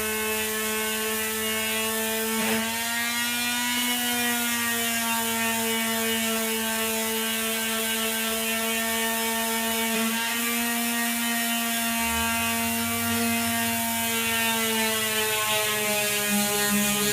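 Handheld electric sander running continuously with a steady motor whine, its pitch dipping slightly now and then as it is pressed into the work while smoothing an edge of a dashboard piece.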